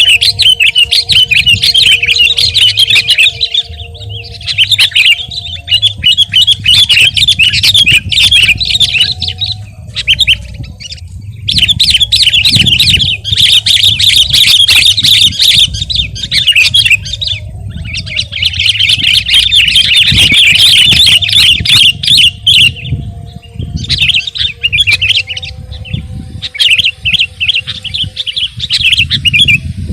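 Sooty-headed bulbul (kutilang) singing vigorously in long bursts of rapid chattering notes, several bursts a few seconds each with brief pauses between, over a steady low rumble.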